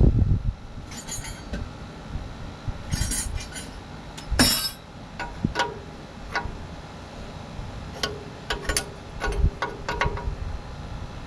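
Metal hand tools and hydraulic fittings clinking and knocking: a string of sharp metallic clinks, several ringing briefly, with the loudest knock about halfway through.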